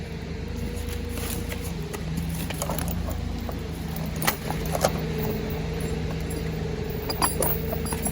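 An engine running steadily at an even pitch, with a few short metallic clinks and rattles of chain over it.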